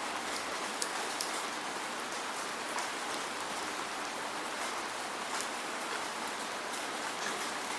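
Steady rain with no thunder: an even hiss of rainfall, with separate drops ticking sharply here and there.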